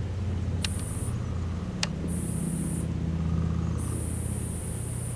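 Ceiling fan running with a steady low hum. A high hiss cuts in and out about every second, and two sharp clicks come about a second apart near the start.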